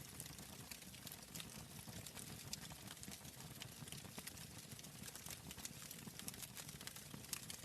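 Fire crackling in a fireplace: irregular small snaps and pops over a low steady rumble.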